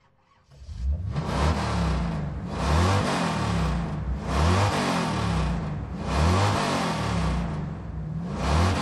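A car engine revved over and over, about five times, each rev rising and falling in pitch.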